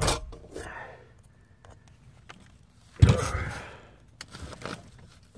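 A person's heavy sigh, the breath blowing on the microphone, about three seconds in, starting suddenly and fading over about a second. A knock at the start and a few light clicks.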